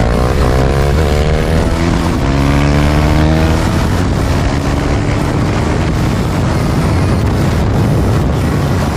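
KTM Duke 390's single-cylinder engine running with its muffler removed, straight out of the header. Its pitch rises in steps through the first three and a half seconds as the bike accelerates, then the sound turns into a steady rushing noise.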